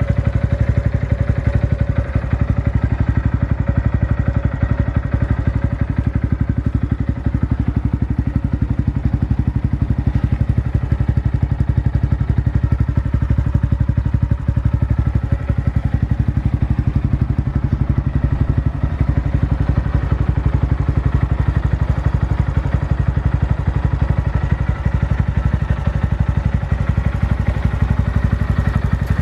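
Honda Monkey 125's single-cylinder four-stroke engine idling steadily through an aftermarket BEAMS muffler, a fast, even exhaust pulse with no revving.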